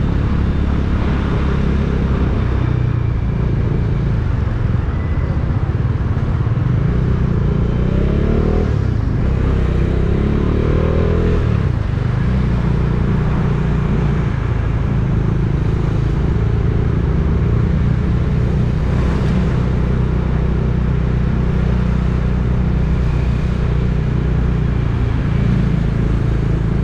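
A motor vehicle's engine runs steadily under road noise, heard from on board while driving, as a constant low hum. Partway through, a short stretch rises and falls in pitch.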